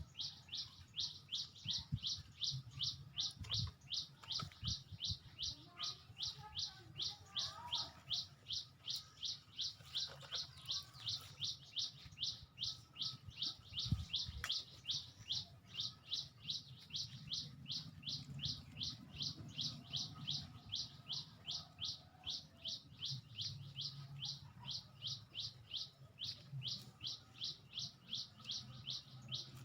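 A bird chirping over and over in a steady, unbroken series of short high notes, about three a second. A low hum sits underneath, and there is a single knock about halfway through.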